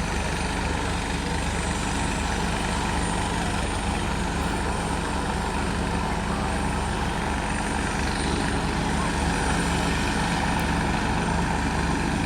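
Helicopter running on the ground with its rotors turning, waiting to take off: a steady, even noise with a fast rotor pulse underneath and no change in pitch or level.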